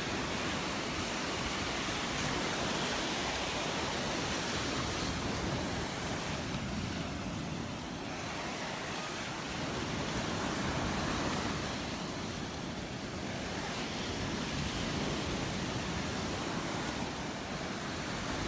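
Surf breaking and washing up on a sandy beach: a steady wash of noise that swells and eases every few seconds.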